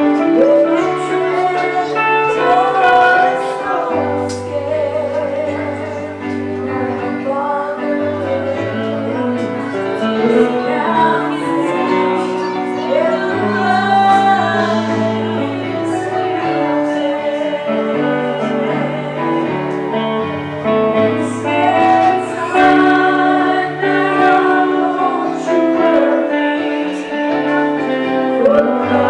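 Gospel music during an altar call: a woman singing over keyboard and bass accompaniment.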